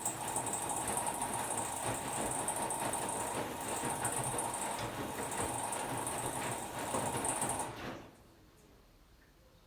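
Hotpoint-Ariston Aqualtis washer-dryer running a wash cycle, its drum turning with a steady motor whine and the soft knocks of wet laundry, then stopping suddenly about eight seconds in.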